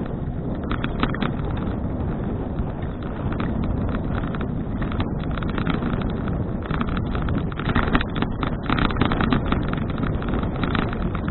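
Wind buffeting the action camera's microphone while a bicycle is ridden, over steady tyre rumble. Frequent clicks and rattles from the bike come thicker in the second half.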